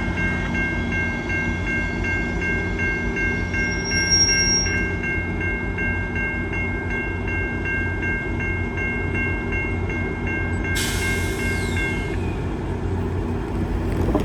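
Railway crossing warning bell ringing in a fast, even rhythm over the low rumble of a passing train; the bell stops near the end.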